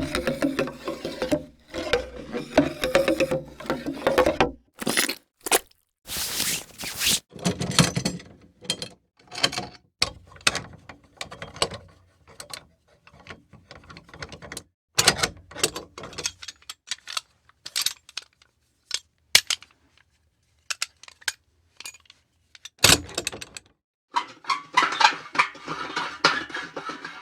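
A run of separate foley effects: short clinks, taps, knocks and rattles one after another with brief gaps, a sharp hit near the end, then a rustling, scraping stretch.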